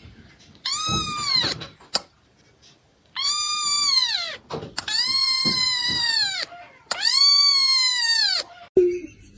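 A cat meowing four times in long, drawn-out meows, each rising then falling in pitch.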